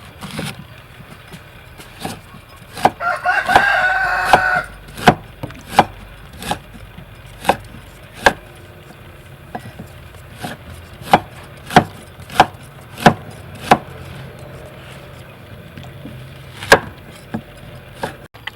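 Repeated sharp knocks, about one every two-thirds of a second, pausing briefly in the middle and ending with a single knock near the end. A rooster crows once, loudly, about three seconds in.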